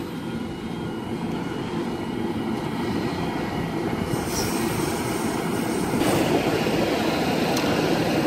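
A train passing close by, its wheels running on the rails in a steady rumble that slowly grows louder. A brighter, hissing high edge joins from about four seconds in.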